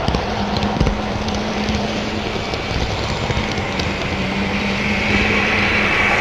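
HO scale model train running on the layout: a steady motor hum with a few clicks of wheels on the track early on, and a higher hiss building near the end.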